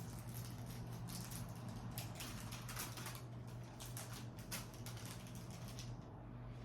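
Crinkling and rustling of sterile packaging as sterile gloves are taken out of a central line dressing kit and unfolded: a run of quick, light crackles that stops about six seconds in, over a steady low hum.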